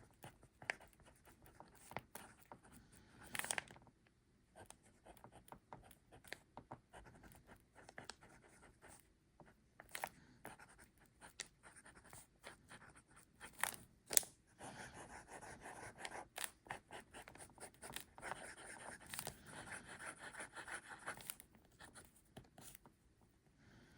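Faint scratching of a Sailor 1911L broad-nib fountain pen writing on paper, with scattered small ticks of the nib lifting and landing. A denser stretch of continuous scratching comes in the second half.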